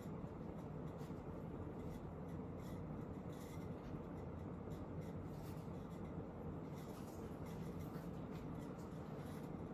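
Casablanca Zephyr ceiling fan running on a high speed: a steady whoosh of moving air and motor hum, with faint scratchy ticking over it.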